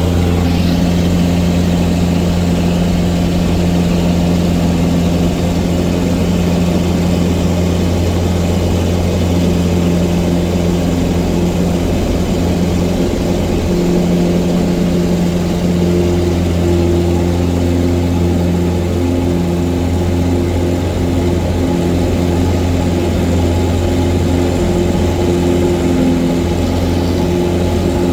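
Cessna 177 Cardinal's piston engine and propeller running steadily, a loud, even drone with a slight shift in pitch partway through.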